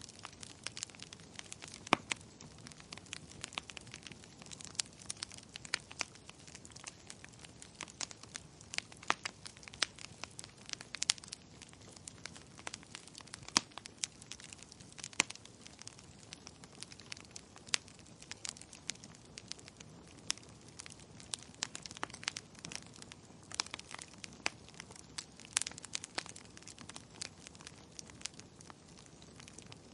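Burning firewood crackling: a soft steady hiss of the flames with many irregular sharp pops and snaps, a few of them louder.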